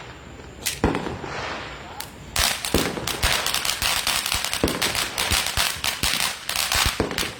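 Consumer firework going off: two single sharp pops, then from about two and a half seconds in a rapid string of crackling bangs like a firecracker string, which stops shortly before the end.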